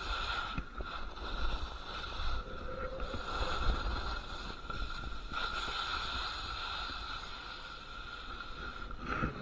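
Skis scraping over icy snow on a steep slope: a rough hiss that swells and fades from turn to turn, with wind rumbling on the microphone.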